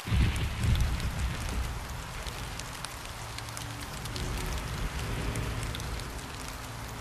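Rain: a steady hiss with scattered drop ticks, and a low rumble that comes in suddenly at the start and is loudest in the first second or so.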